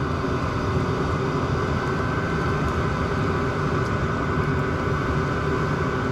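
Chinese diesel parking heater running steadily: an even hum from its combustion blower, with a steady whine over it.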